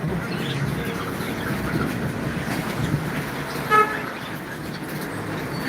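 A vehicle horn gives one short toot about two-thirds of the way through, over steady road traffic noise.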